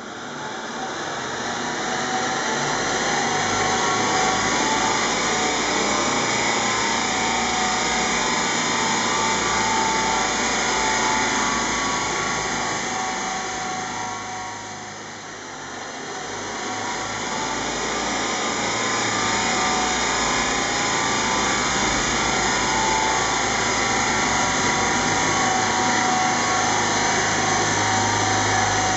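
Skoda Superb's 2.0 TDI four-cylinder turbodiesel under load on a chassis dynamometer: a loud, steady whir of engine, rollers and cooling fan. It builds over the first few seconds, dips briefly about halfway through, then climbs back.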